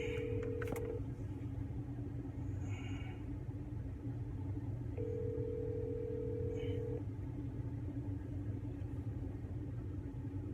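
Telephone ringback tone heard over a phone's speaker while an outgoing call rings unanswered: a steady two-second tone, then about four seconds of pause, once ending about a second in and again about five seconds in. A steady low rumble runs underneath.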